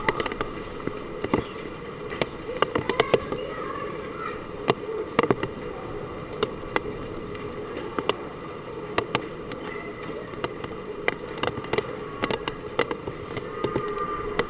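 Heavy rain falling steadily, with drops striking a hard surface close by in sharp, irregular taps.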